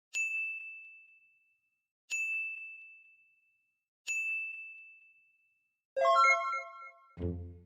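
Three identical ding sound effects about two seconds apart, each a single high bell-like ring that fades away over a second and a half. Then a short bright chime of several notes, and near the end plucked low notes of background music begin.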